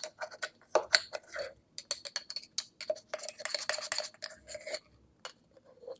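Spoon clinking and scraping in a nearly empty jar of instant espresso powder as it is scooped out. A run of quick light clinks, with a denser stretch of scraping about three seconds in.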